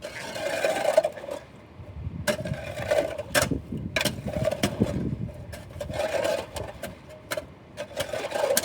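A metal shovel jammed in and levered against something, scraping and clanking in repeated bursts with several sharp clicks.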